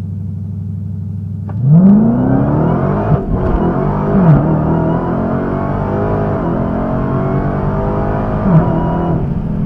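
Supercharged 6.2-litre Hemi V8 of a 2020 Dodge Challenger SRT Hellcat Redeye, heard from inside the cabin. It runs steadily at low revs, then is launched hard about a second and a half in, and the engine note climbs steeply. The note breaks briefly about three seconds in and dips at further upshifts just after four seconds and near the end. The break fits the 1-2 shift hiccup that the owner puts down to hitting or anticipating the rev limiter.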